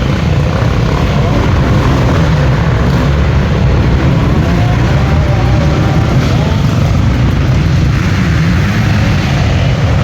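Dirt bike engines running and revving on a race course, the pitch rising and falling as riders go through a slow turn. The sound is loud and steady throughout.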